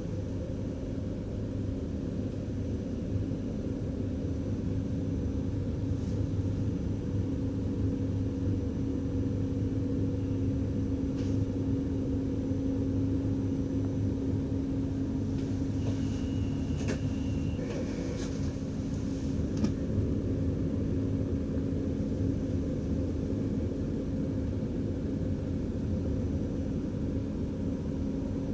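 DDZ double-deck electric train running along the track, heard from the driver's cab: a steady rumble with a constant low hum. About halfway in, a brief high-pitched tone steps down once in pitch, with a few faint clicks.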